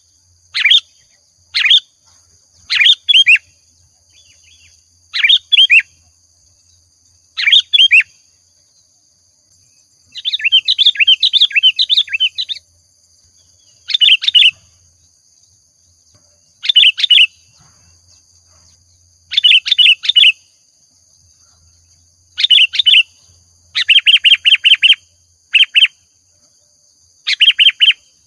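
Sooty-headed bulbul (kutilang) singing vigorously: short whistled phrases repeated every second or two, with a longer run of rapid notes about ten seconds in and a fast, even string of notes later on. It is a lure song meant to set other bulbuls singing.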